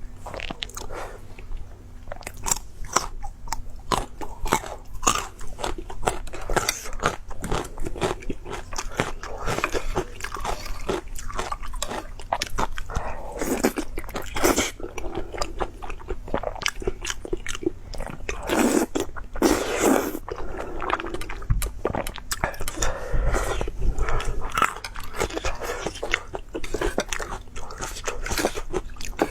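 Close-miked eating: a person biting and chewing crunchy food, with many irregular crunches and mouth clicks throughout.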